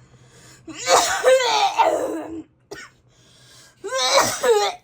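A person coughing in two long, hoarse, voiced fits. The first lasts about two seconds; the second, shorter one comes near the end.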